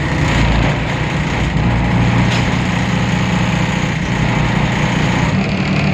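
A Temsa Avenue LF city bus's DAF PR 228 diesel engine running steadily at an unchanging speed: a loud, even, low drone.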